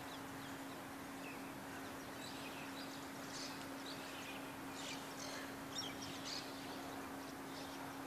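Birds chirping, short high calls scattered over a steady outdoor background hiss, most of them in the second half, with a constant low hum beneath.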